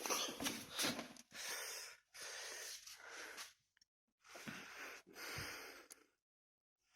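A person breathing hard close to the microphone: about six noisy breaths, each under a second long, ending about six seconds in.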